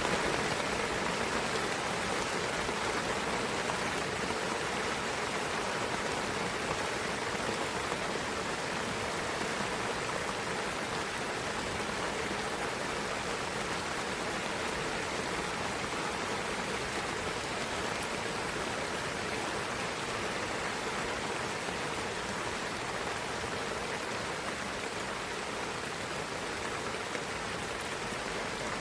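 Steady rain falling in a pine forest, an even hiss of many drops with no single drop standing out.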